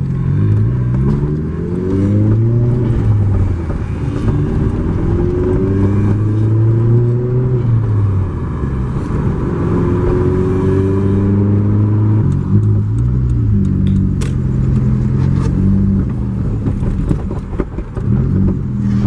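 Volkswagen GTI's engine under way, its pitch climbing as the car accelerates and dropping back at each gear change, several times over.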